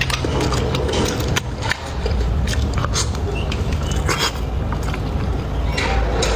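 Close-miked chewing and biting into spicy chicken heads, with many short, sharp crackles, over a steady low hum.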